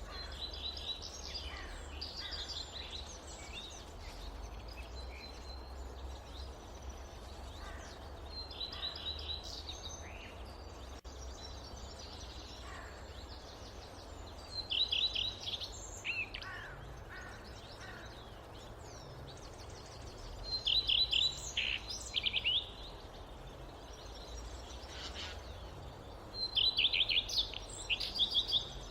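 Wild birdsong in a forest: a songbird repeating short, fast trilled phrases every few seconds, the loudest about halfway through and near the end, over a steady low rumble of wind or distant background noise.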